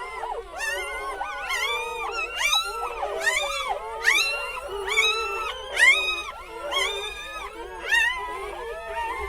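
A litter of young puppies whining and squealing together, many high-pitched rising-and-falling cries overlapping without a break.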